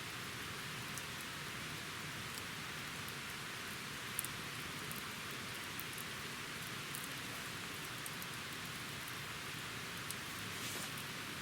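Wood campfire burning: a steady hiss with scattered sharp crackles and pops, one louder pop about four seconds in.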